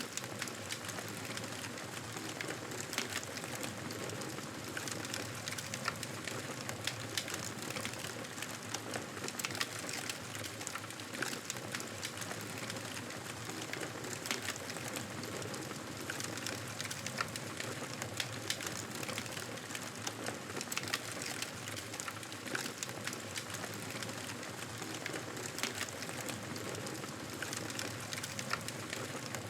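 Wood fire crackling: a steady hiss with frequent sharp pops and snaps.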